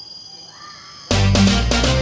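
Steady insect trilling in forest ambience, then about a second in, loud background music on piano or electric keyboard cuts in abruptly.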